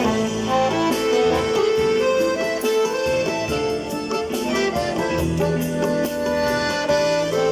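Accordion fitted with a MIDI system playing a melody in sustained notes over bass notes, with a keyboard-like backing accompaniment.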